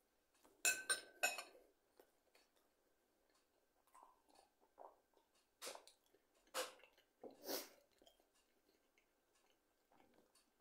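A person chewing food close to the microphone, with mouth clicks and smacks: a quick cluster about a second in, then a few louder single smacks between about six and seven and a half seconds.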